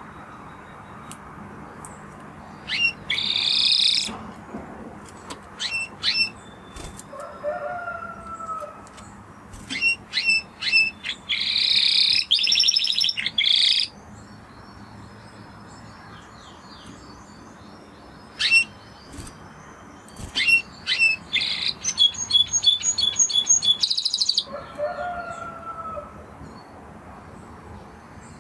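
Spanish Timbrado canary singing in separate phrases: sharp high chirps and fast trills, one a rapid run of repeated notes near the end of a phrase, with pauses between. Twice a fainter, lower pair of whistled notes sounds under the song.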